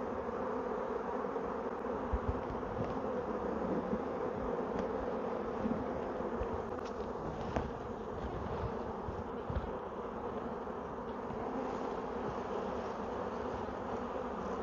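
A swarm of honeybees buzzing: a steady, dense hum of many bees, with a few faint knocks of frames being handled.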